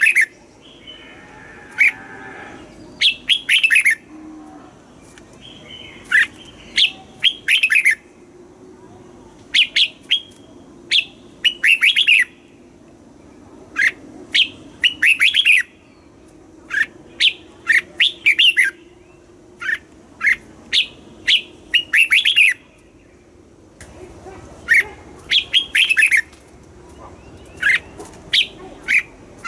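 Red-whiskered bulbul singing: short, bright phrases of quick notes, repeated every second or two with brief pauses between.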